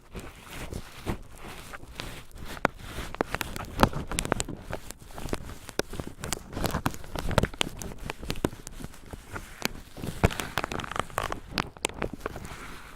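Cotton swabs being crinkled and rubbed: dense, irregular scratchy crackling with many sharp clicks.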